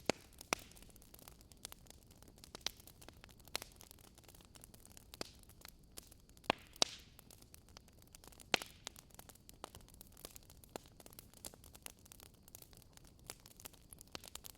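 Fireplace fire crackling: irregular sharp pops and snaps over a faint steady hiss, with a few louder pops around the middle.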